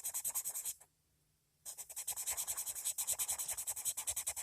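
Coloured pencil scribbling back and forth on paper in quick, even strokes, about eight to ten a second. It pauses for under a second about a second in, then carries on.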